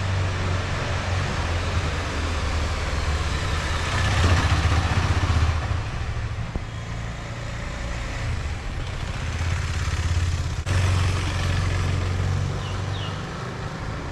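Motorcycle engine running while under way, with wind and road noise over it. It gets louder about four seconds in and steps up suddenly again about ten and a half seconds in.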